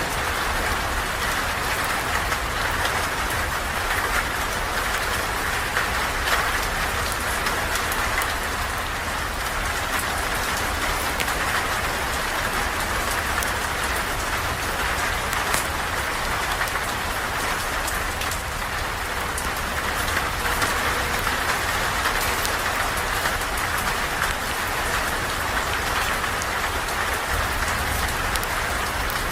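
Steady rain falling, an even hiss with a low rumble underneath and scattered faint ticks of drops.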